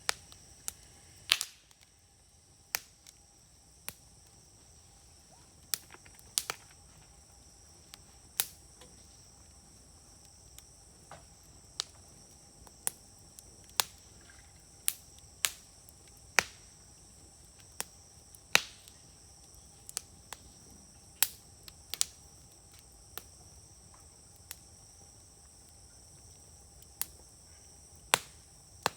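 Wood fire crackling with frequent sharp pops at irregular intervals, a few of them loud, over a steady high trill of insects.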